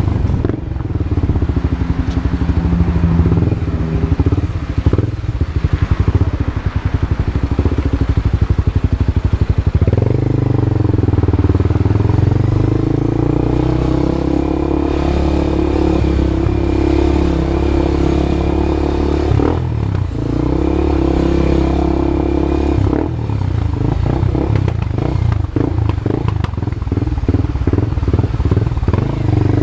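Honda CB Twister single-cylinder motorcycle engine running through an aftermarket exhaust. It pulses unevenly for about the first ten seconds, then holds a steady higher note, dips briefly around twenty seconds in, and turns uneven again near the end.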